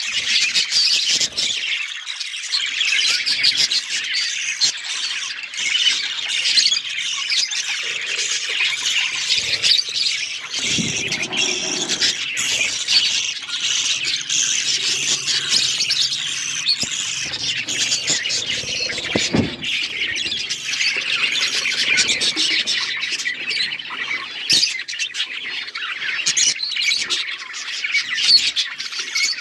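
A flock of budgerigars chattering and warbling continuously, a dense mix of chirps, squawks and trills, with a few soft low thumps mixed in.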